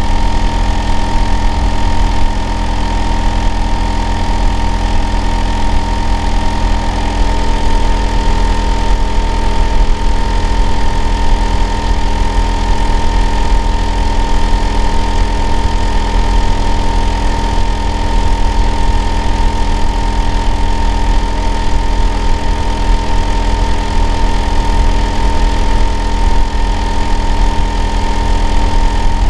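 Hitachi air-conditioner outdoor unit running continuously: a loud, steady hum with a heavy low rumble and a constant whining tone above it, the noise the uploader calls abnormal.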